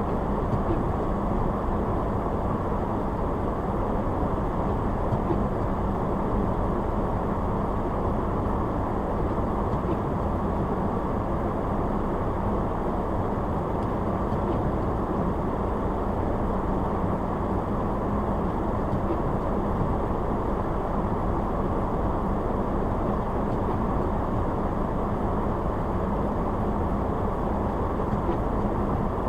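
Car driving: a steady, unchanging road and engine noise with a faint low hum.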